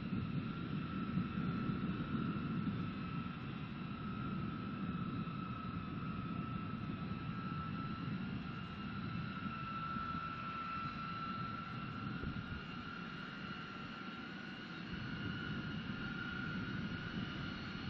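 Jet aircraft engines running steadily: a continuous low rumble with a steady high whine over it.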